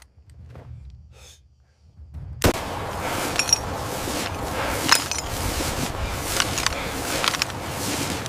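Quiet footsteps, then about two and a half seconds in a sudden bang opens a loud, steady roar of combat noise with scattered sharp cracks of gunfire.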